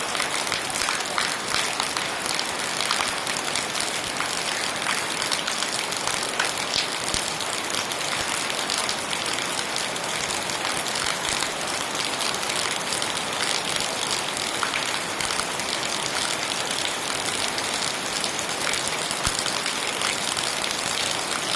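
Heavy rain falling steadily: a dense hiss peppered with many separate drop hits.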